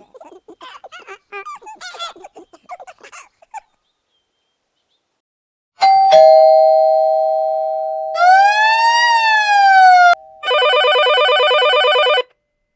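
A string of stock sound effects: first a fast jumble of short squeaky chirps, then a loud two-tone doorbell ding-dong that rings on and fades, then a single tone that rises and falls like a siren, and last a harsh buzzer lasting about two seconds.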